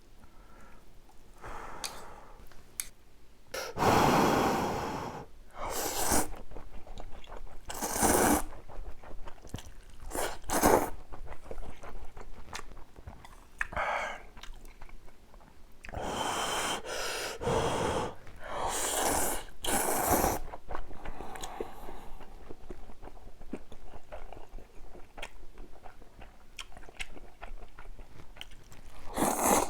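Spicy instant ramyun noodles slurped in a series of breathy bursts and chewed, starting a few seconds in.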